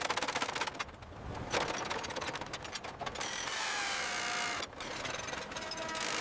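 Rapid mechanical clicking like a ratchet, broken about halfway through by a whirring stretch of a second or so, then clicking again.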